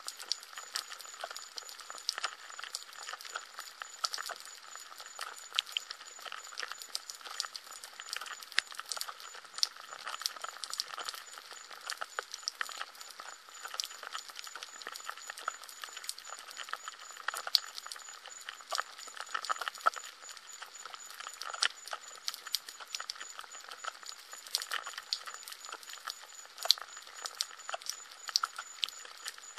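Rain pattering: a steady hiss of falling rain with frequent sharp, irregular ticks of single drops landing close by.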